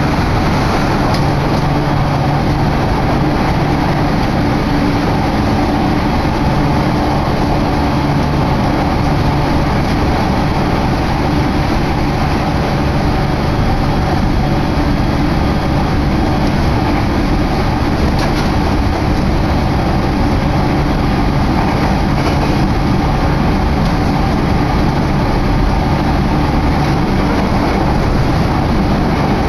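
Passenger train running at speed, heard from inside the carriage: a loud, steady rumble of wheels on rail with a low hum under it.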